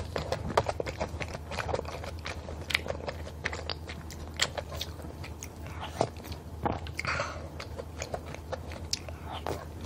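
Close-miked chewing of a mouthful of malatang, many small sharp mouth clicks at an uneven pace, over a steady low hum.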